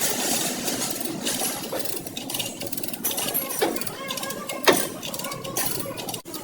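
Steady machine clatter of body-shop metalwork, with several sharp metal knocks; the loudest comes about three-quarters of the way through.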